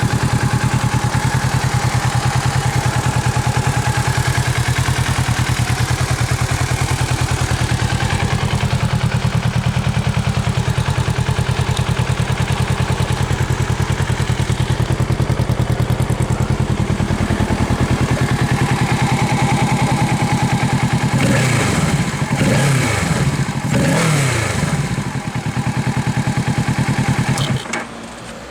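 Kawasaki Ninja 650's parallel-twin engine idling steadily through a Trick Star Ikazuchi aftermarket exhaust. About three quarters of the way through it is blipped in a few quick revs that rise and fall. It cuts off abruptly near the end.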